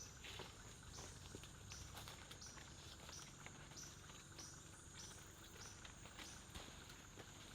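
Faint rainforest insect drone, one steady high note, with a short high call repeated about every two-thirds of a second that stops about six seconds in.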